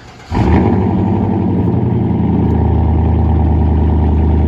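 2011 Chevrolet Silverado Z71's 5.3-litre V8 firing on a cold start about a third of a second in and running at a steady fast idle, the note settling slightly after a couple of seconds.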